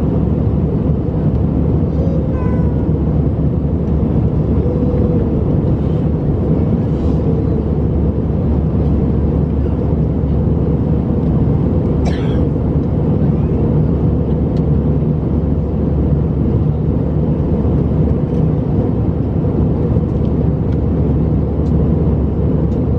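Steady roar of engine and airflow noise inside the cabin of an Airbus A319 airliner in flight, with a faint steady hum; a brief higher sound cuts in once about twelve seconds in.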